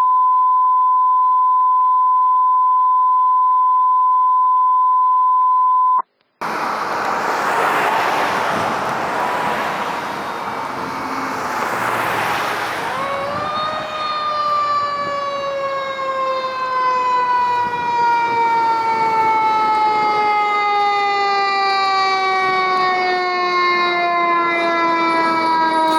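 A steady 1 kHz test tone for about six seconds, cut off abruptly. Then a fire engine's siren: a noisy wail that rises to a clear pitch about 13 seconds in and then winds slowly down in pitch.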